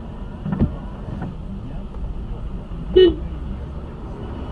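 Car on the road with a steady low rumble of engine and road noise, a knock about half a second in, and one short, loud horn toot about three seconds in.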